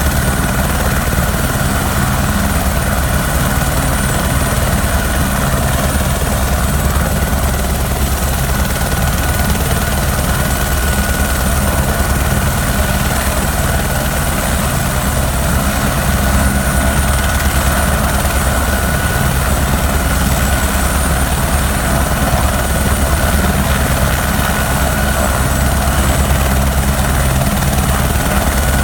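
Sheriff's police helicopter running steadily: a constant low rotor rumble with a steady high turbine whine over it.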